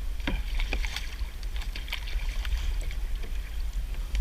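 Kayak being paddled and turned: short splashes and knocks scattered through, over a steady low rumble.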